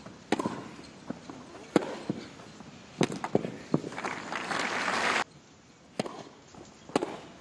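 Tennis ball struck by rackets in a rally, sharp single pops about a second and a half apart, then a few quicker hits and bounces. A swell of crowd noise rises for about a second and cuts off abruptly. Two more ball strikes follow near the end.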